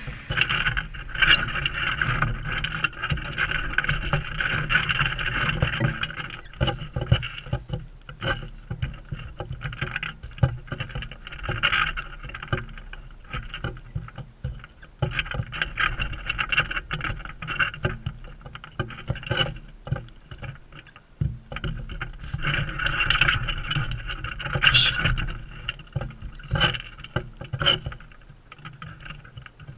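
Parrots feeding at a seed feeder right beside the microphone: irregular clicks and scrapes of beaks on seed and on the tray, over a fainter, steadier noise that grows louder for a few seconds twice.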